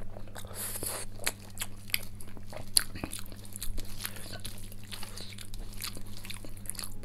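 Close-miked eating sounds: chewing and lip-smacking of rice and curry, with fingers squishing rice on a steel plate, many short wet clicks throughout. A steady low hum runs underneath.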